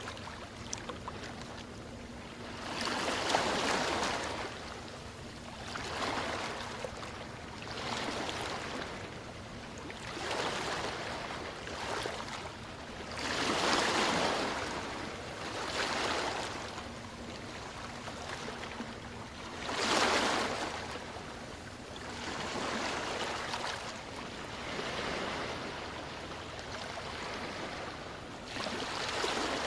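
Sea waves washing in, one soft swell of surf every few seconds over a steady hiss.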